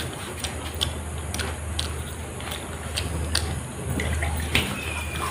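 Wet, close-up chewing and mouth clicks of a person eating rice and pea ghugni by hand, with fingers squishing and mixing the food on a tray: a string of short sharp clicks over a steady low hum.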